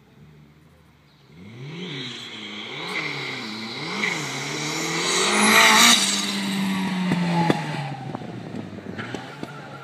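Vauxhall Viva van and Mini racing up a hill climb, engines revving hard. The engine note starts about a second in and climbs and drops several times with gear changes. It is loudest about halfway through as the cars pass, then settles to a steadier, fading note as they pull away.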